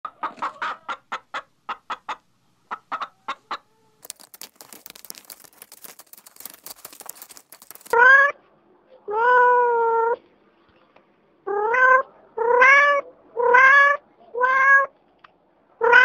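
Hens clucking in a quick run of short clucks, then faint scratchy crackling, then a kitten meowing six times, one meow held about a second.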